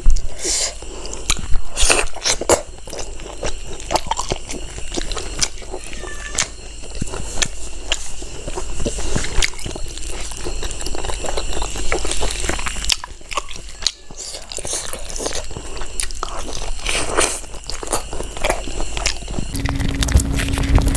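Close-miked chewing and biting of pork rib curry with rice, a dense run of wet mouth clicks and smacks. Near the end a brief rushing noise with a low hum.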